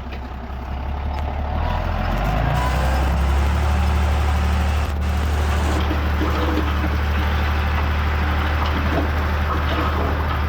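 Heavy diesel earthmoving machinery running at work, with a steady low engine note that dips at the start and picks up again over the first few seconds. Scattered light clanks and knocks are heard over the engine.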